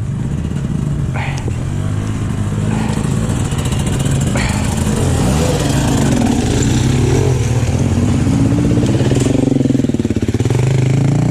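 Yamaha WR-F single-cylinder four-stroke dirt bike engine running under way, the revs holding fairly steady with small rises and falls.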